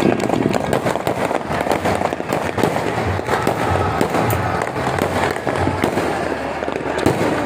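Fireworks and firecrackers going off in a rapid, continuous run of sharp crackling pops, with no break.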